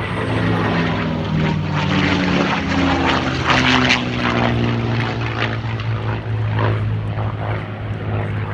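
P-51 Mustang's Merlin V-12 engine and propeller running in a steady drone as the fighter flies its airshow pass, with the engine note shifting in pitch as it goes by.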